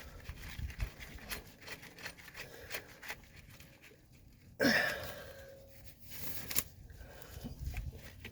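Small metal clicks and rattles of a lock washer and nut being fitted by hand onto a strut bolt, with one louder rasping sound about halfway through.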